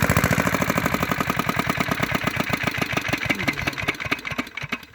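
5 hp Comet single-cylinder diesel engine running down after being shut off: its firing beats slow and fade until it stops near the end.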